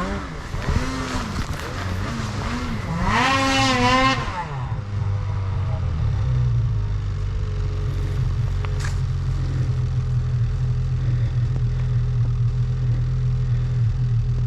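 Snowmobile engine revving, its pitch rising and falling repeatedly, loudest about three to four seconds in, then settling into a steady idle.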